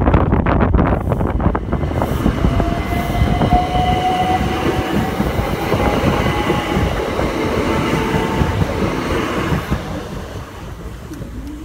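Southern Electrostar electric multiple unit passing close by as it pulls away from the station, its traction motors whining with a slight rise in pitch over a heavy rumble of wheels on rail. The sound fades near the end as the train moves off.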